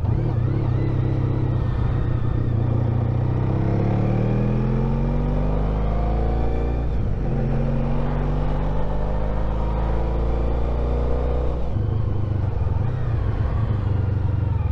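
Honda ST1300 Pan European's V4 engine pulling under acceleration, with wind and road rumble: the revs rise for a few seconds, drop at a gear change about seven seconds in, climb again, then fall back near the end.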